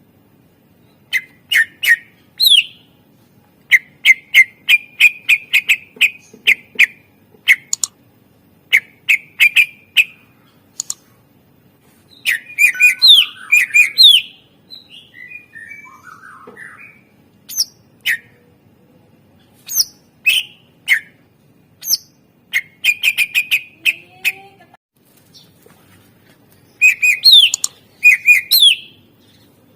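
A cucak ijo (greater green leafbird) singing loudly in bursts of rapid, sharp chirps and short slurred whistles, the full mimicry-rich song used as a training recording for other birds. It falls to a few softer notes about halfway through, then resumes.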